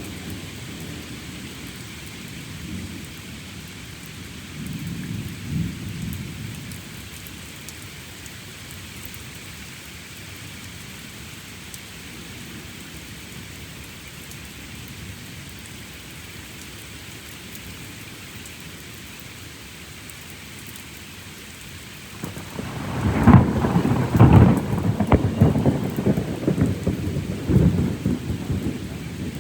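Steady rain falling through a thunderstorm, with a low roll of thunder about five seconds in. Some 22 seconds in, a loud thunderclap breaks with sharp cracks and rolls on rumbling for several seconds.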